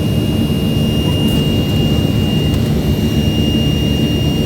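Jet airliner cabin noise: a steady low engine rumble with a constant high whine over it.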